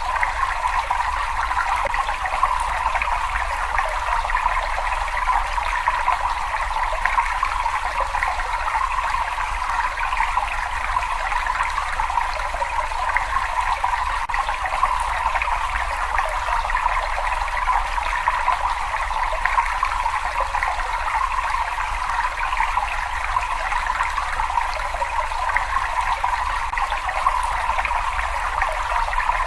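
Water running and trickling steadily in a cave, an even wash of sound with no breaks or changes.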